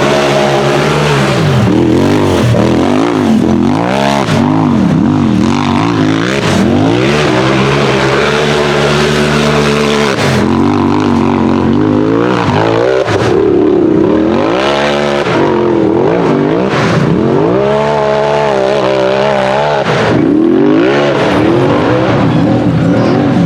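Side-by-side UTV engine under hard throttle, revving up and dropping back over and over, with a few longer stretches held at high revs.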